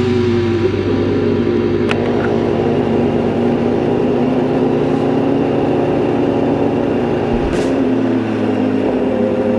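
BMW S1000RR's inline-four engine running under way, with wind rush. Its pitch drops over the first half-second, then holds steady, rising slightly near the end.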